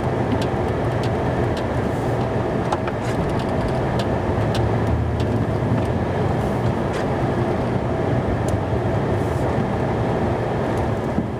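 Snow-plow truck engine running steadily, heard from inside the cab while plowing, with a few faint clicks scattered through.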